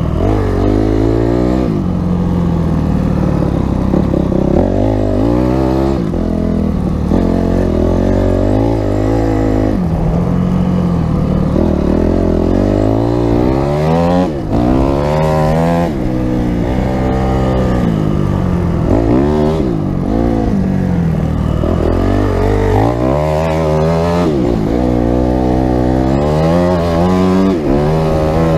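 Honda CRF250X's single-cylinder four-stroke dirt bike engine under way, revving up and backing off over and over, its pitch climbing and dropping throughout.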